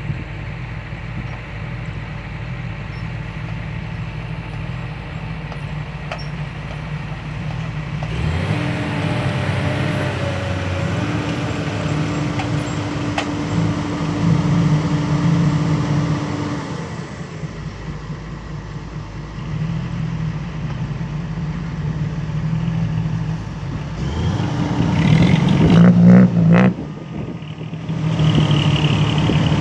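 Komatsu PC200 hydraulic excavator's diesel engine working under load. It rises in pitch about eight seconds in, eases off partway through, then rises again near the end with a short loud rough stretch before dropping back.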